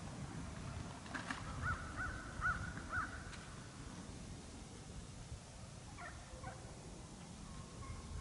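A bird calls outdoors at dawn: a run of four short, arched calls in quick succession, starting a second or two in, over a low rumbling background.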